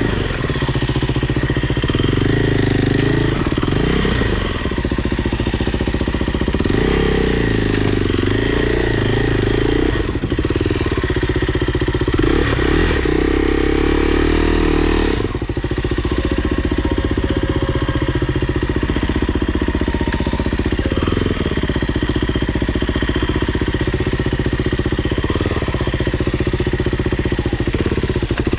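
Dirt bike engine running loud and steady, its pitch rising and falling as the throttle is worked; the engine note drops suddenly about halfway through.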